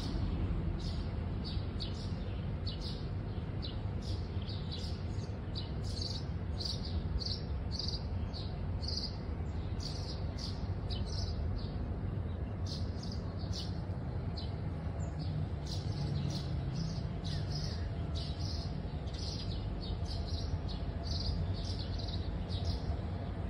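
A bird chirping over and over, about two short high chirps a second, over a low steady rumble.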